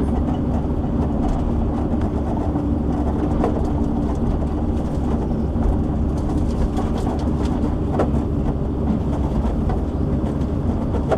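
Diesel engine of a hydraulic log-loading shovel running steadily under load while it works logs, heard from the machine, with a faint steady hum over the engine's low rumble and a couple of light knocks.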